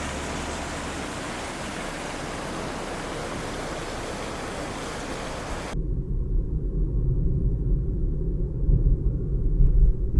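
Steady rush of a swollen river's flowing water. About halfway through it cuts off abruptly, giving way to a louder, gusting low rumble.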